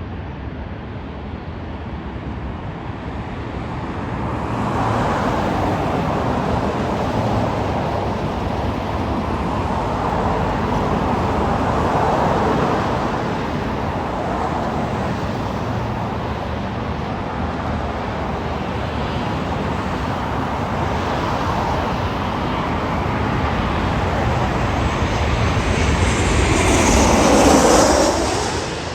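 Jet airliner passing close by, its engine roar building for several seconds, swelling with a whooshing sweep to its loudest near the end, then falling away quickly.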